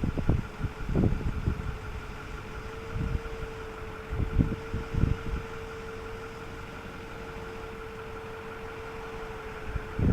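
Ford F-550 Super Duty crane truck running at idle with a steady whine, with irregular low rumbles in the first half.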